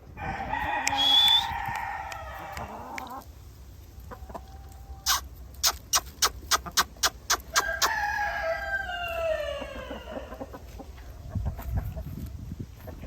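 Shamo rooster crowing twice: a first crow of about three seconds, then a quick run of about ten sharp claps, then a second crow whose long tail falls in pitch.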